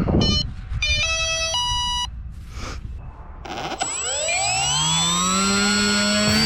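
A short run of electronic beeps at stepped pitches. Then, about four seconds in, the RC plane's brushless electric motor and propeller spin up with a rising whine that levels off into a steady high-pitched run.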